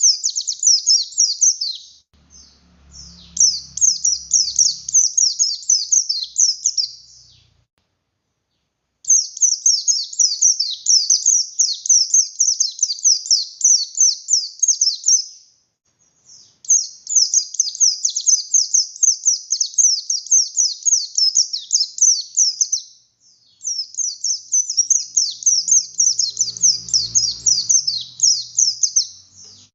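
A white-eye of the buxtoni type (pleci buxtoni) sings a long, rapid, high-pitched chattering song in runs of several seconds. It breaks off briefly three times. A faint low rumble lies underneath twice.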